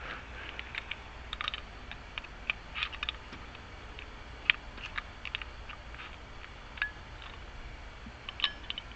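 Scattered light clicks and taps of small lock cylinder parts being handled and fitted together during a rekey.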